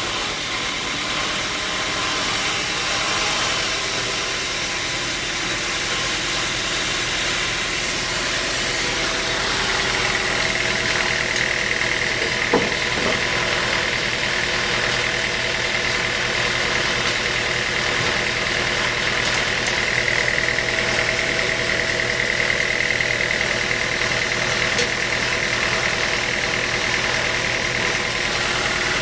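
Sawmill machinery running steadily with an engine hum. A higher steady whine joins about ten seconds in, and there is a single knock a little after that.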